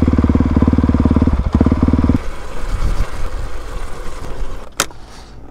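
Dirt bike engine running steadily with an even, rapid pulse, then shut off abruptly about two seconds in. A single sharp click comes near the end.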